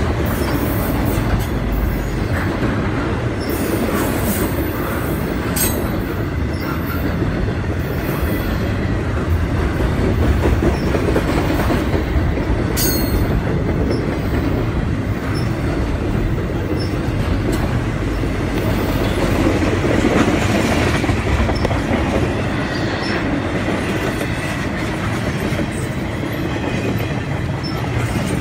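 Double-stack intermodal freight train rolling past: a steady, loud rumble and rattle of steel wheels on rail and clattering well cars. A few brief high-pitched wheel squeals cut through it.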